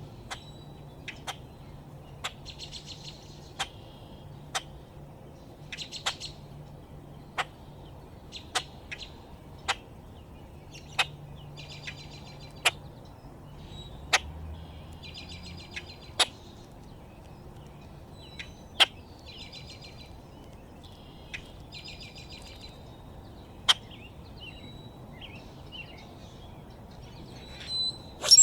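Small backyard birds chirping and chattering in short buzzy bouts, with a sharp click every second or two. A louder burst of sound comes at the very end.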